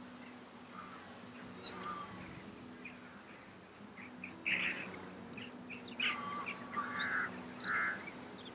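Wild birds chirping and calling: short, scattered chirps that are loudest about halfway through and again in the last few seconds, over a faint steady low hum.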